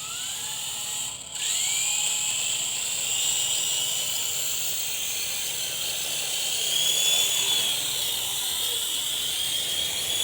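Electric motor and rotor of a WLtoys V912 RC helicopter spinning up: a high whine that climbs in pitch over the first second or so, dips briefly, climbs again, then holds a steady high pitch that wavers slightly as the throttle shifts.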